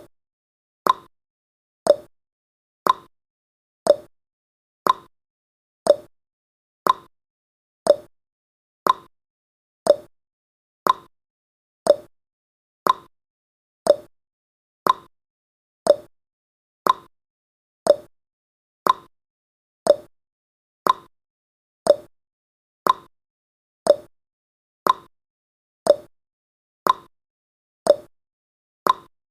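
Countdown timer's tick sound effect, one short, sharp tick every second at a steady pace, marking off the seconds.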